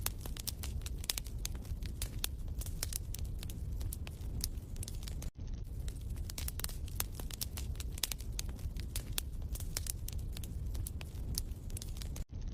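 Crackling wood fire in a fireplace: irregular sharp pops and snaps over a low steady rumble. The sound cuts out for an instant about five seconds in and again near the end.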